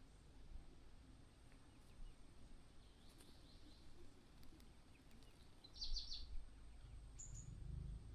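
Faint outdoor background with a low rumble, and a short burst of high bird chirps about six seconds in, followed a second later by one brief high note.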